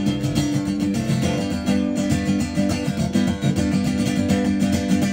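Acoustic guitar strummed in a steady rhythm during an instrumental break between sung lines.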